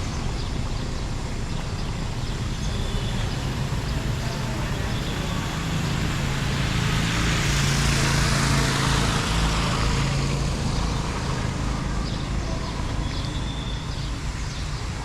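A vehicle passing by on the road, swelling to its loudest about eight seconds in and then fading, over a steady rushing background.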